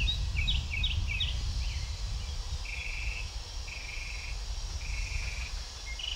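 Wild songbirds calling: a run of quick chirping notes, then a short buzzy trill repeated about once a second, over a steady low background rumble.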